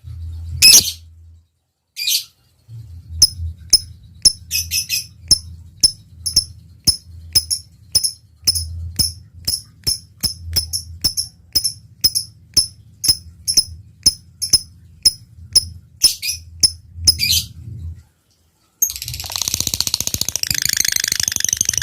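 Lovebird calling: a long series of sharp chirps about two a second, the 'ngetik' ticking, then after a short pause a fast continuous chattering trill, the long 'ngekek', starting near the end.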